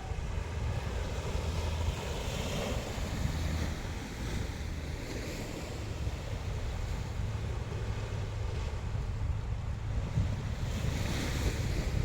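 Sea waves washing onto the shore, the wash swelling about two seconds in, again midway and near the end, under heavy wind buffeting the microphone with a constant low rumble.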